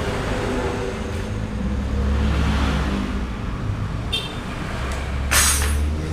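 Kawasaki KLX 150's single-cylinder four-stroke engine running through its stock exhaust with a gutted silencer. It gets louder about two seconds in and again near the end, and a short hiss comes just before the end.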